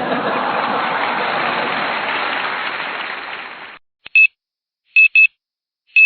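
A loud rushing noise that fades and cuts off about four seconds in, followed by short high electronic beeps in quick pairs, about one pair a second.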